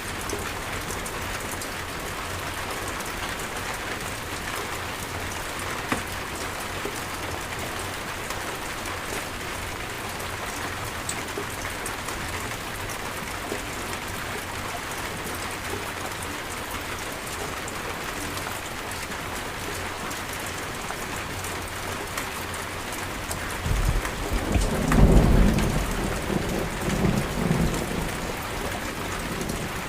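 Steady rain falling, a dense even hiss of drops. About 24 seconds in, a roll of thunder rumbles low and loud for a few seconds, then fades back under the rain.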